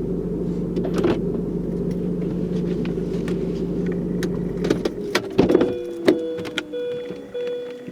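A car engine idling, then switched off about five seconds in, followed by clicks and keys jangling. The car's warning chime then starts sounding in a steady repeating pattern.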